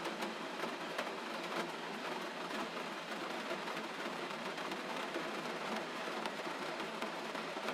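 Steady gentle rainfall, an even hiss with many faint scattered droplet ticks.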